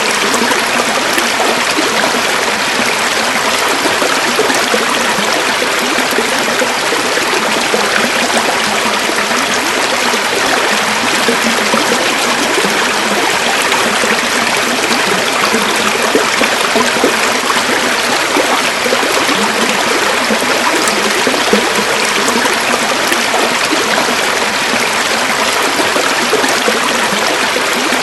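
River water flowing over stones, a steady babbling rush with no pauses.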